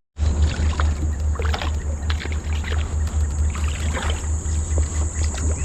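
Water sloshing and splashing against a fishing kayak, with a loud low pulsing rumble underneath. A steady high insect buzz runs through it.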